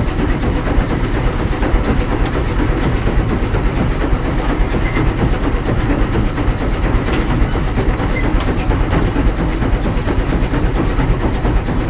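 Heisler geared steam locomotive running steadily, heard from inside its cab: an unbroken mix of fast exhaust beat, steam and running-gear noise.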